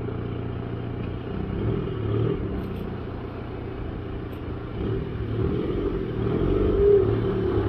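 TDI turbodiesel engine running, with its turbocharger whistling. It swells a few times with light revs and gets louder near the end.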